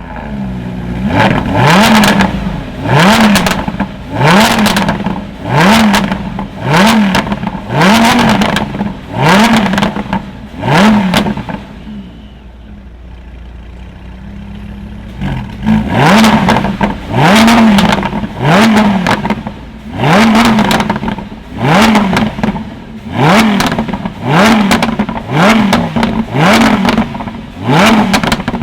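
Tuned car engine revved in rapid, repeated throttle blips, roughly one a second, each rising sharply in pitch and falling back. About halfway through the blips stop and the engine idles for about three seconds before they resume.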